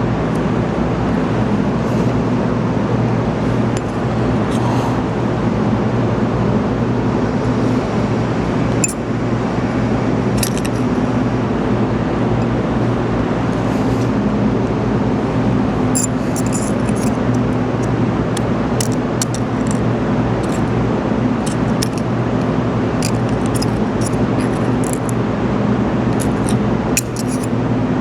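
A steady background drone of shop machinery. Over it come scattered light metallic clicks and clinks as packing rings are picked out of the pump's fluid section with a dental pick and stacked, the clicks coming more often in the second half.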